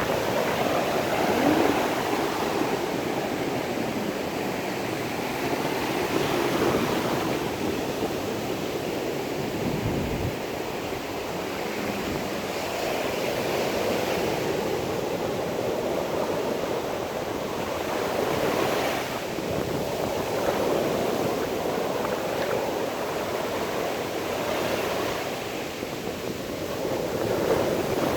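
Sea waves washing in on a shore, the rush of water swelling and easing every few seconds, mixed with wind noise.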